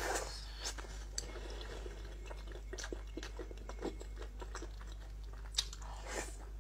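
A person chewing and biting mouthfuls of soft braised meat close to the microphone, with scattered short wet clicks over a steady low hum.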